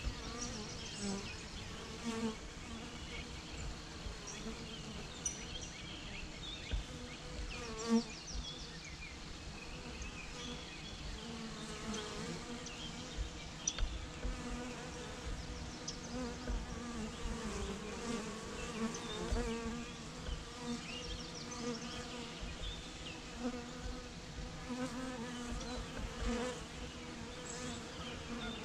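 A swarm of bees buzzing: a steady, many-voiced hum that swells briefly now and then.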